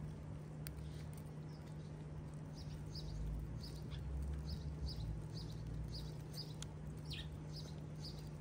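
House sparrow chirping over and over, short high chirps about two a second, with a few sharp clicks and a steady low hum underneath.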